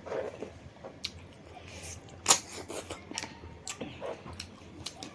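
Close-up eating sounds: scattered sharp clicks and crunches of chewing, the loudest about two and a half seconds in.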